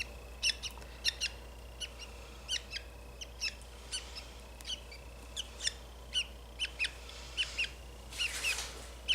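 Budgerigar chick giving short, high-pitched chirps about twice a second, irregularly spaced: protest calls from a chick being held while tape is cut from its splayed legs.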